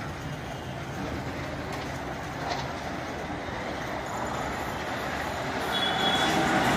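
Express train approaching behind a WAP-5 electric locomotive, its running noise on the rails growing steadily louder over the last couple of seconds.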